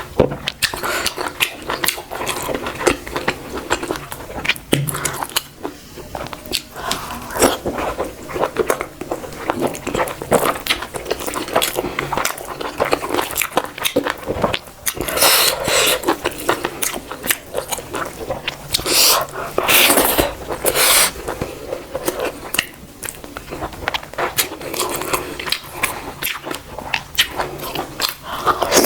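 Close-miked mukbang eating sounds: chewing and biting, with many short wet mouth clicks and smacks and a few louder, longer noisy stretches about halfway through.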